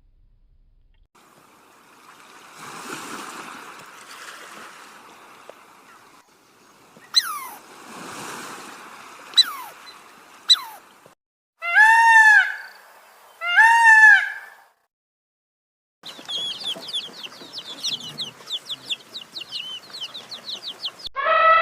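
A string of separate bird and animal calls, one after another: a few sharp chirps, then two loud arched squawks a second and a half apart, then a fast run of high chirping calls, with a loud falling call starting at the end.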